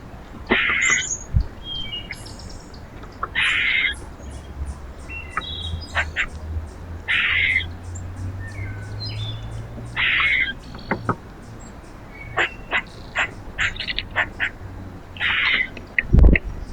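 Backyard birds at a feeder calling: a harsh call about half a second long repeats every two to five seconds, among many short sharp chips. A faint low hum sits under the middle, and a loud thump comes near the end.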